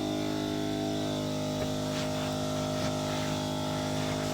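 Steady machine hum made of several unchanging tones, with no change in pitch or level.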